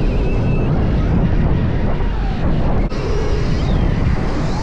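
Stark VARG electric dirt bike ridden at speed: heavy wind and track rumble with a thin electric-motor whine gliding up and down, and a brief dropout just before three seconds in.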